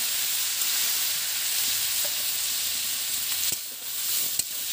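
Spiced cauliflower, potatoes and peas sizzling hard in a hot wok as water is poured in, the hiss steady, then easing briefly about three and a half seconds in as the vegetables are stirred with a spatula. One sharp tap comes near the end.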